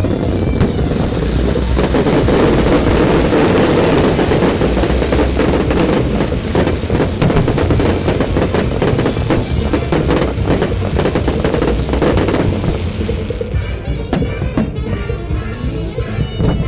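Dense barrage of fireworks: many sharp bursts and crackling over big-band jazz music from loudspeakers. The barrage thins out about thirteen seconds in, leaving mostly the music with a few scattered bangs.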